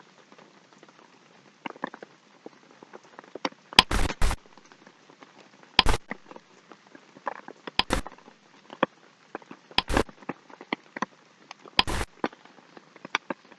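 Sharp clicks or knocks about every two seconds, over faint, irregular crackling.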